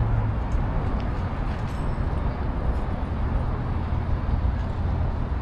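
Steady outdoor city background noise dominated by the low rumble of road traffic, with a low engine hum from a passing vehicle fading out just after the start.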